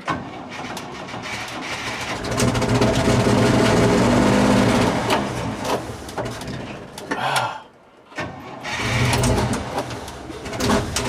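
Old GMC V6 gasoline engine, primed with a shot of fuel at the carburetor, cranking and catching on its first start of the year, then running unevenly. About three-quarters of the way through it cuts out briefly, then picks up and runs again.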